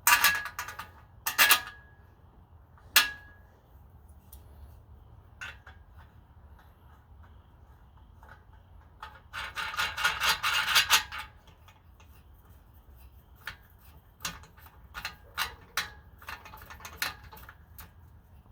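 Metal parts and tools being handled: a few sharp clinks that ring briefly in the first few seconds, a dense rattling clatter about halfway through, then scattered light clicks.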